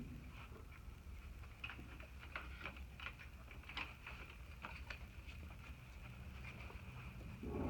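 Paper raffle tickets stirred by hand in a pot: faint, irregular rustling with light crackles and clicks.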